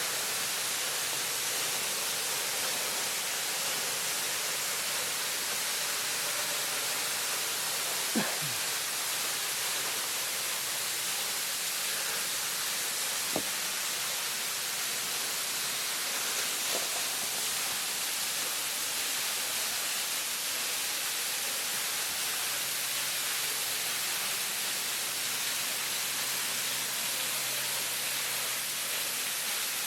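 Waterfall, heard close: a steady roar of falling water with no change, broken only by two brief clicks about eight and thirteen seconds in.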